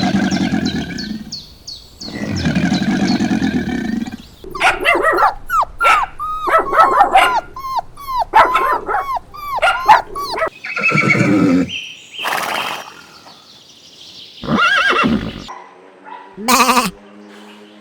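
A series of different animal calls, one after another: two low calls, then a quick run of many short pitched calls, then several separate calls, ending with a steady held call.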